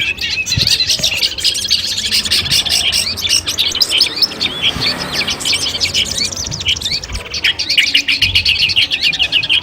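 Long-tailed shrike (cendet) singing a fast, dense stream of short chirps, thinning out for a couple of seconds midway and picking up again densely about six and a half seconds in.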